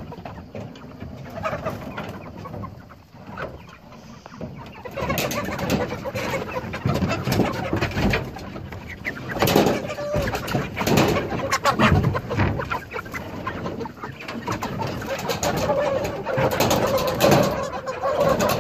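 A pen full of broiler chickens clucking and squawking as a plywood board is pushed in behind them, with many short knocks and scrapes mixed in. The noise grows louder and busier about five seconds in.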